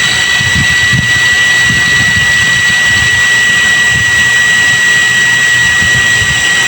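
Electric water pump motor running steadily with a constant high-pitched whine over a hiss while it builds line pressure toward its automatic cut-off at about 4 bar.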